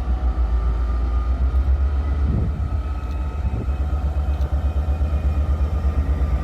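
Train running through the station: a deep, uneven rumble with faint thin whining tones above it.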